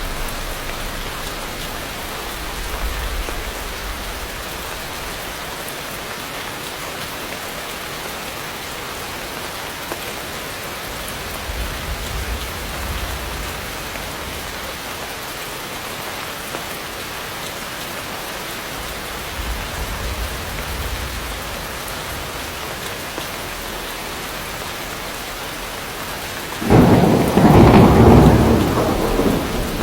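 Heavy rain falling steadily, with a few low rolls of distant thunder and a loud thunderclap near the end.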